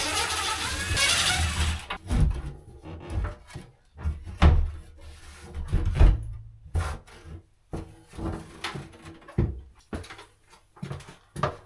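A screwed-on access panel being pulled off and handled: a scraping slide for about two seconds, then a string of knocks and clatters.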